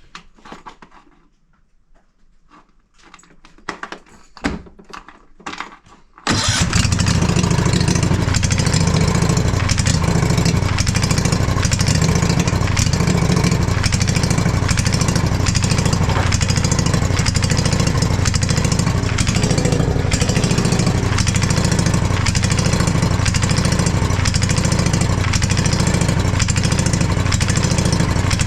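A few faint clicks of handling, then about six seconds in the Husqvarna mower's engine starts abruptly and runs steadily and loud, while its carburetor screw is adjusted by ear.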